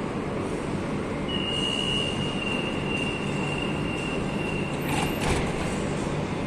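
Madrid Metro train rumbling along the rails, with a high, steady wheel squeal that sets in about a second in and lasts about four seconds, falling slightly in pitch. Two sharp clacks come near the end.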